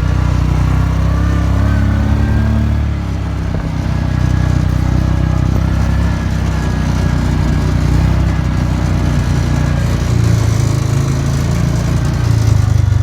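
An engine running steadily, its note shifting a little about three seconds in and again near ten seconds.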